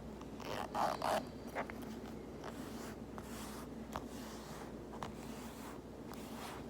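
Cloth of a small fabric pouch rubbed and tapped close to the microphone: a couple of short scratchy rustles about a second in, then scattered soft taps.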